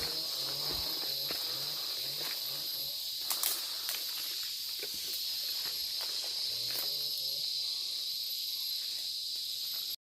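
Steady, high-pitched drone of forest insects. About three and a half seconds in there are a few sharp snaps and rustles of footsteps in undergrowth, and a low repeating call is heard near the start and again about seven seconds in.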